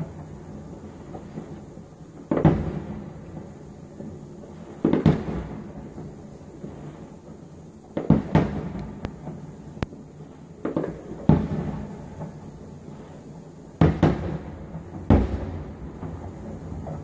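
Aerial firework shells bursting: a sharp bang every few seconds, each trailing off in a rolling echo, with several bangs coming in quick succession about eight to eleven seconds in.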